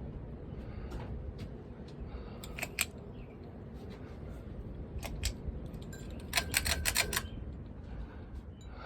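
Harbor Breeze Cheshire ceiling fan running on high, a steady rush of air and motor noise. Scattered sharp clicks come through, with a quick run of them about six seconds in.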